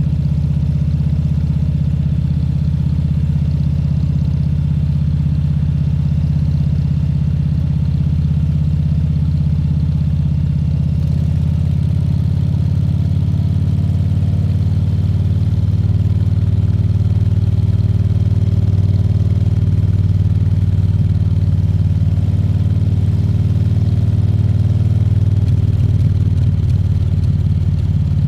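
Harley-Davidson Fat Bob 114's Milwaukee-Eight 114 V-twin engine running steadily, a low, even engine note that changes slightly in pitch about twelve seconds in.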